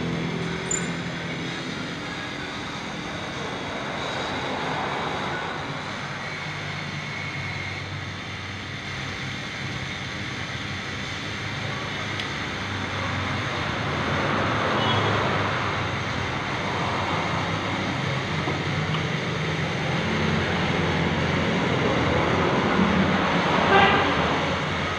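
Suzuki Satria FU 150's single-cylinder four-stroke engine running steadily at idle after its clutch housing has been replaced. There is a short sharp knock near the end.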